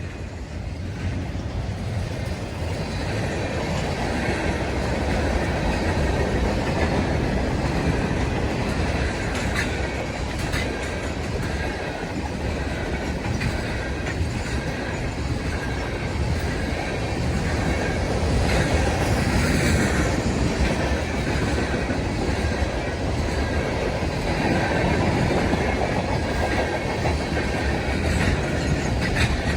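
Train rolling past, its wheels clattering over the rail joints with a faint metallic squeal. It builds over the first few seconds, then holds at a steady loud rumble.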